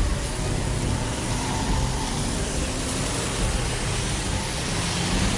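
Vehicle engines idling in a queue of stopped cars and trucks, a steady low hum under an even hiss.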